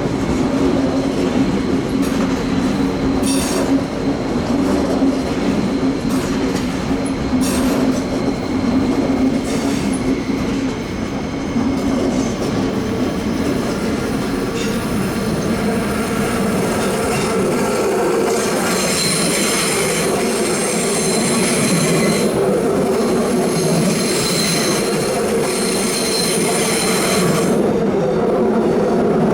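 A train's wheels rumble and click over rail joints as it rounds a tight curve. From about two-thirds of the way in, a steady high-pitched squeal of wheel flanges against the rail rises and holds for several seconds, then stops.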